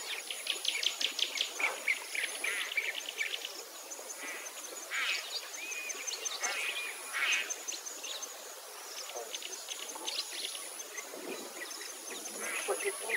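Several birds chirping and trilling in quick runs of short notes, with a thin high steady buzz, typical of an insect, coming and going behind them.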